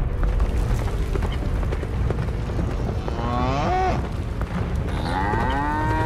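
Two long, arching moos from cartoon cattle: one about three seconds in, and a second starting about five seconds in and still going at the end. They sound over a steady low rumble from a stampeding herd's hooves.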